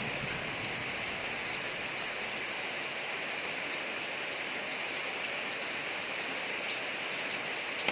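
Steady rain falling on a street: an even hiss of rain with scattered drop ticks. The tail of a low thunder rumble dies away in the first second or two.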